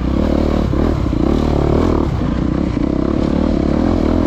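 Off-road dirt bike engine running hard under the rider on a woods trail, with the throttle rolling off briefly a few times.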